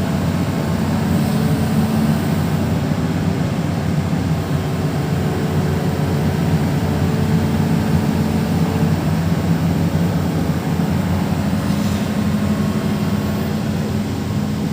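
Hitachi 210 excavator's diesel engine running steadily.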